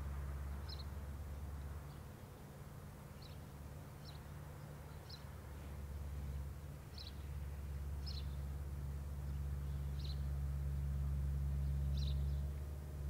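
A small songbird giving short, high single calls every second or two, over a steady low hum.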